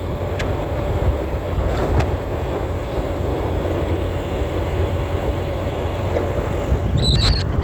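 Motorcycle engine running steadily under way, with a low rumble and a rush of wind past the microphone. A few short high chirps come near the end.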